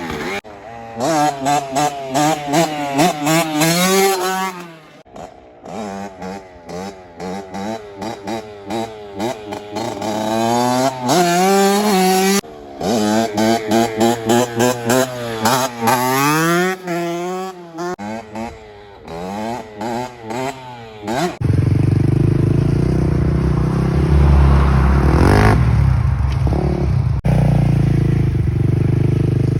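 Kawasaki KX65 65cc two-stroke dirt bike engine revving in repeated blips, its pitch rising and falling over and over as the throttle is opened and closed. About two-thirds of the way in the sound changes suddenly to a steady loud low rumble with rattling.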